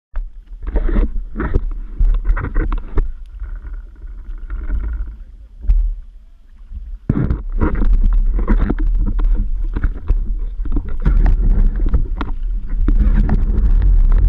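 Yamaha Waveblaster personal watercraft's two-stroke Yamaha 701 twin, with aftermarket Riva pipe and waterbox, running on the water, with wind buffeting the microphone. The sound dips about six seconds in, then picks up and runs loud and steady.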